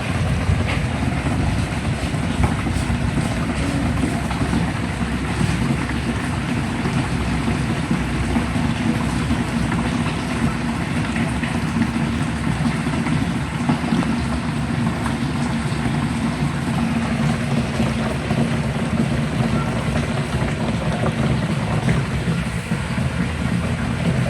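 SHARP twin-tub washing machine running, a steady motor hum under the churning of water in the wash tub.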